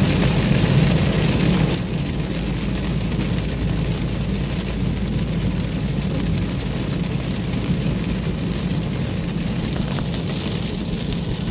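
Heavy thunderstorm rain drumming on a car's roof and windscreen, heard from inside the moving car as a loud, steady wash of noise over the low rumble of tyres on the wet road.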